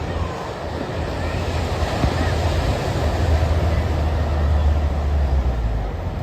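Surf washing on a beach, swelling about two seconds in, under a steady low rumble of wind on the microphone.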